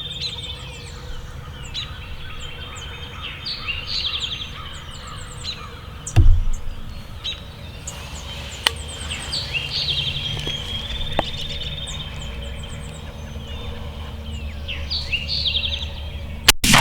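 Songbirds singing, with repeated short high trills, over steady outdoor background noise; a dull low thump about six seconds in. Right at the end comes a sudden loud shotgun blast.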